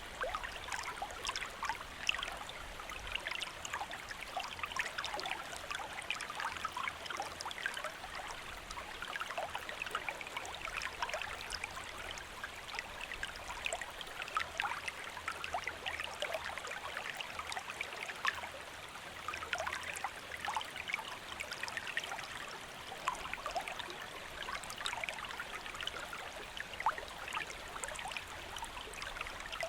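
Shallow river water flowing steadily over stones, a continuous rushing with many small splashes and gurgles through it.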